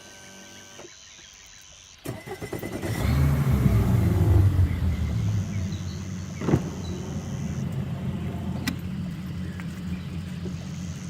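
An engine starts about two seconds in, revs up and then settles into steady running.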